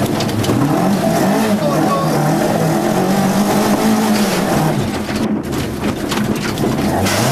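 Mk1 Ford Escort rally car engine heard from inside the cabin, driven hard. The revs climb and hold high, drop about five seconds in, then climb again over steady road and wind noise.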